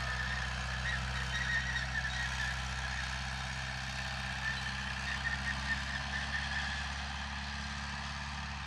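Heavy diesel engine of earthmoving machinery running steadily, with a high whine over the low engine note that fades a little near the end.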